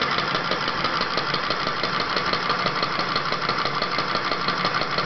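Model hot-air engine running steadily, its moving parts clicking rhythmically at about eight beats a second over a constant mechanical whirr.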